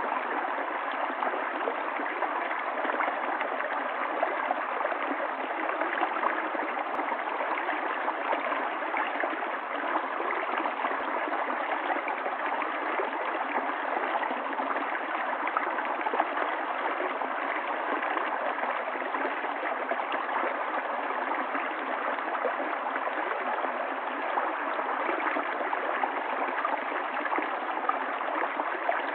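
Running water of a stream, a steady, even rush that never breaks, with no deep rumble.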